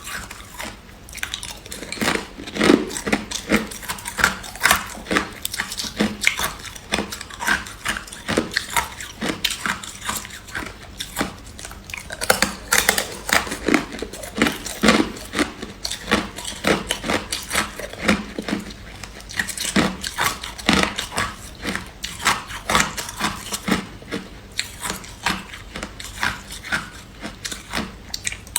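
Someone biting and chewing hard clear ice: a rapid, irregular stream of loud, sharp crunches and crackles.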